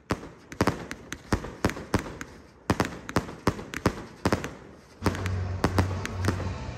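Fireworks going off in an irregular string of sharp bangs and cracks, about two or three a second. A low steady hum comes in about five seconds in.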